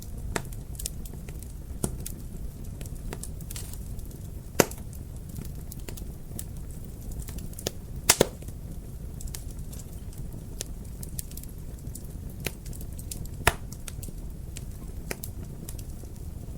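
Fireplace fire crackling over a steady low rumble, with scattered small clicks and a few louder pops: one about four and a half seconds in, a quick pair about eight seconds in, and another near thirteen and a half seconds.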